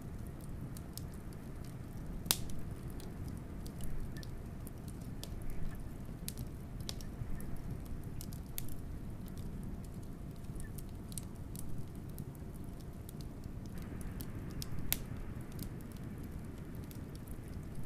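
Wood fire crackling, with irregular sharp pops and snaps, the loudest about two seconds in and again near the end, over a steady low rumble of blizzard wind.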